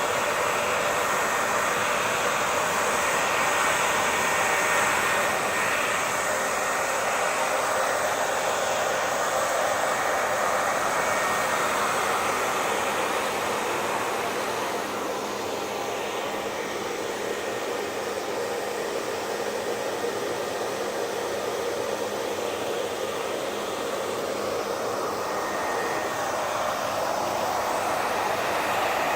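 Hair dryer blowing continuously, a steady airy rushing with its motor whine, dipping slightly in level through the middle and swelling again near the end.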